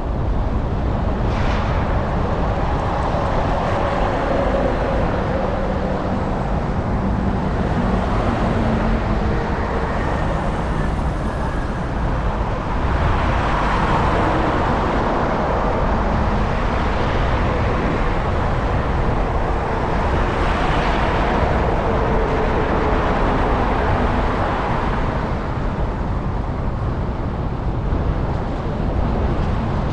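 Road traffic heard from a moving bicycle, with a steady low rumble of wind on the action-camera microphone. Vehicles swell past about halfway through and again about two-thirds of the way in.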